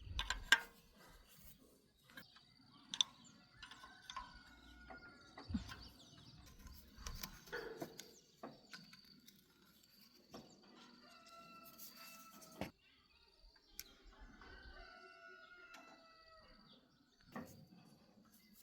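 A rooster crowing twice, two long drawn-out calls in the second half. Scattered faint clicks and knocks sound around it.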